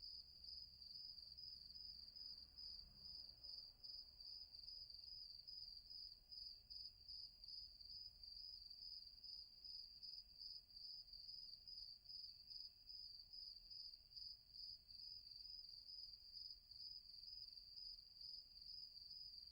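Faint nighttime woodland ambience of crickets: one high, continuous trill that pulses evenly, over a faint low rumble.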